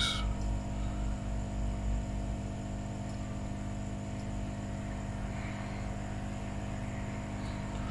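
Steady electrical mains hum with many even tones, with a low rumble underneath that fades out about two and a half seconds in.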